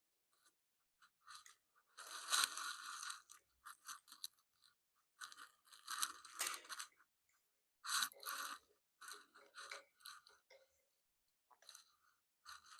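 Irregular short bursts of crunching, rustling handling noise as mini motorcycle parts are worked by hand; the loudest come about two and a half and eight seconds in.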